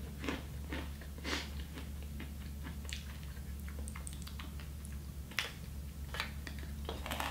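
Someone biting into and chewing a crisp homemade meringue (egg whites and sugar), with a few short, scattered crunches over a steady low hum.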